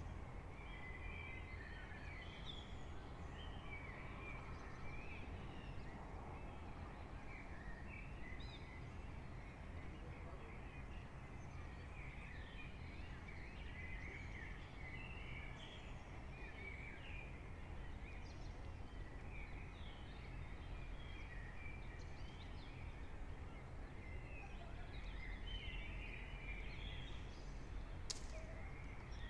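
Early-morning chorus of small birds chirping and trilling continuously over a steady low rumble of town background noise, with one sharp click near the end.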